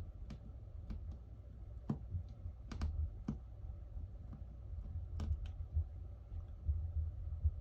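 Small, irregular clicks and taps of a precision screwdriver and tools on a Samsung Galaxy Note 10+'s frame as its screws are driven back in, about a dozen in all, over a low rumble.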